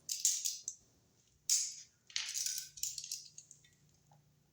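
A receptacle and its stiff wires being handled and pushed into a shallow metal Wiremold box: several short bursts of clinking and rattling.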